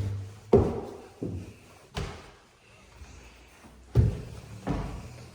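Footsteps thudding indoors, a run of heavy steps about two-thirds of a second apart, with a pause in the middle before two more steps.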